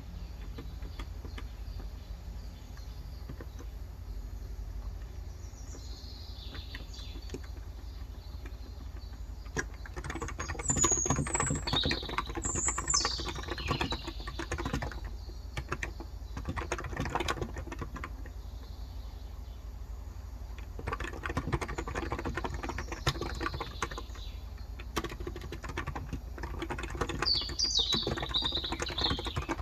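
Typing on a Cox Endeavor tenkeyless keyboard with 35 g electro-capacitive (contactless) switches: a soft, clicking patter of keystrokes, sparse at first and busier from about a third of the way in. Birds chirp outside, loudest in the middle and near the end, over a low steady hum.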